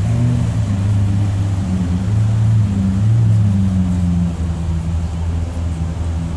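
Lamborghini Aventador SV's V12 engine idling, a steady low note that wavers slightly in pitch.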